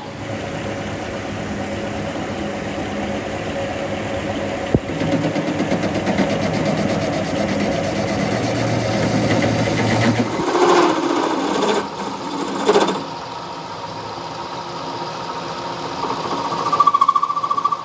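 A workshop machine running steadily with a fast, fine rhythmic clatter, changing about ten seconds in to a few louder bursts, with a steady whine near the end.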